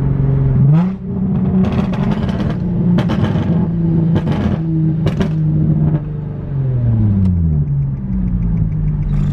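Car engine and exhaust under way. The pitch steps up about half a second in, holds steady, drops off around two-thirds through as the revs fall, then picks up again. Several short sharp cracks come through over the engine.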